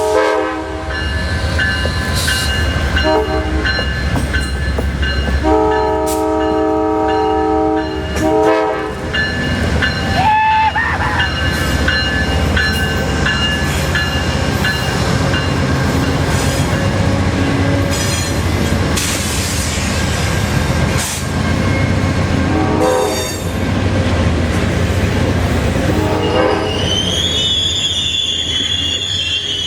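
Amtrak train passing close by with a steady low rumble, its horn sounded again and again: several short blasts and one long blast of about three seconds. Near the end, high-pitched wheel squeal sets in.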